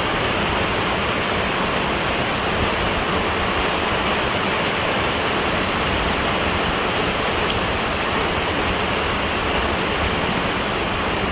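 Heavy downpour of rain, a steady, unbroken hiss.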